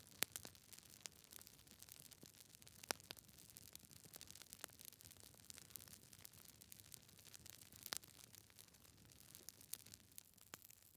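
Wood fire in a fireplace crackling faintly: irregular pops and snaps over a low hiss, with a few sharper pops just after the start, around three seconds in and near eight seconds.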